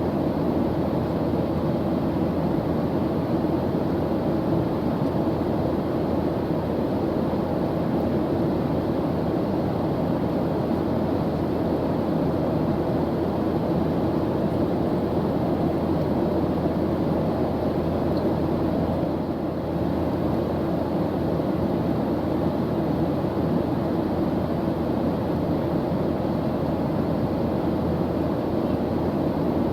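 Airplane engine drone: a steady, even low rumble with a faint hum in it, unchanging throughout.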